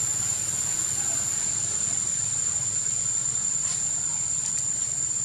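Insects, crickets or cicadas, keeping up one steady high-pitched drone over a low rumble.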